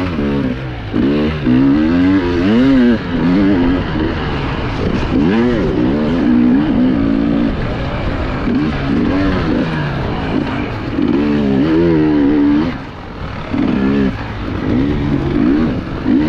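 Enduro motorcycle engine revving up and down over and over as the rider works the throttle, with a brief let-off about two-thirds of the way through.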